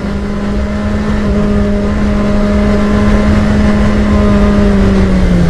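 Motorcycle engine running at a steady speed on the move, its pitch easing down slightly near the end.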